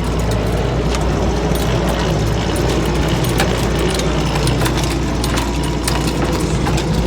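A sailboat's engine running steadily, with many light clicks and rattles over it.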